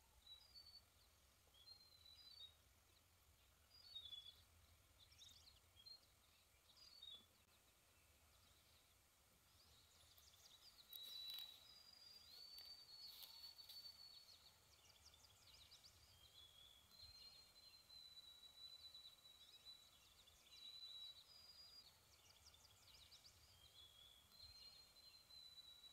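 Faint songbirds calling in the background: short high chirps at first, then longer, thin steady whistled notes from about ten seconds in, over a quiet outdoor hush.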